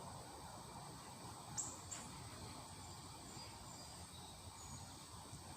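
Pet lovebirds chirping: two sharp, high chirps about a second and a half in, then a few faint high peeps, over a faint steady high tone.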